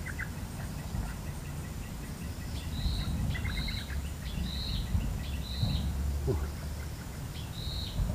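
A bird calling outdoors: five short, arching high notes spaced about a second apart, one of them joined by a quick run of lower ticks. A steady low rumble runs underneath.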